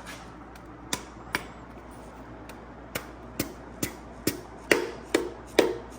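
Hammer tapping a piston down through a piston-ring compressor into the engine's cylinder bore. It gives sharp single taps: two about a second in, then a steady run of about two a second that grow louder toward the end.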